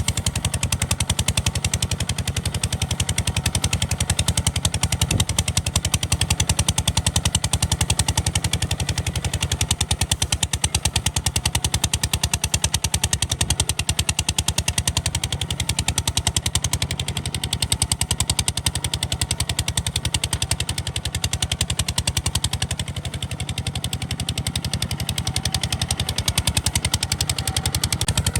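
Kubota RT140 DI single-cylinder diesel engine on a hand-built tractor running steadily, its exhaust giving a rapid, even putter.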